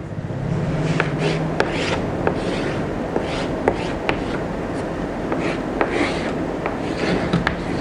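Pen strokes on a writing board: repeated short scratchy rubbing strokes with small taps as the pen touches down, drawing a picture.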